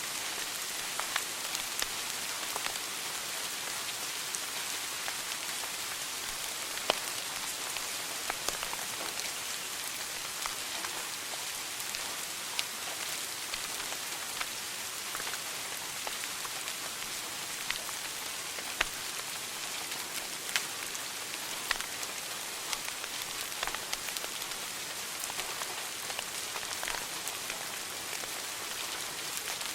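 Wood fire burning in a fireplace, crackling: a steady hiss dotted with frequent, irregular sharp pops.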